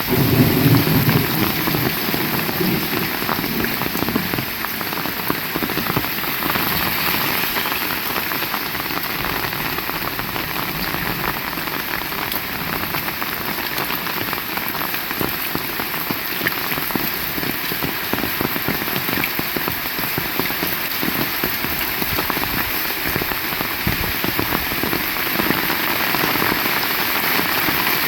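Heavy rain falling steadily, a dense patter of drops hitting surfaces. A brief low rumble swells in the first second or two.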